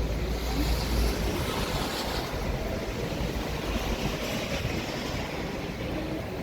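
City street ambience in the rain: a steady hiss of rain with traffic rumbling, heaviest low rumble in about the first second.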